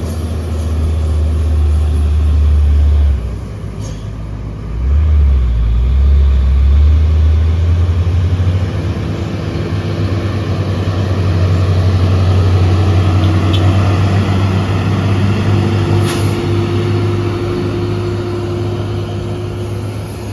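Heavy diesel truck engine labouring up a steep climb, a loud, deep rumble. A few seconds in, the engine note drops for about two seconds, then picks up again and holds steady.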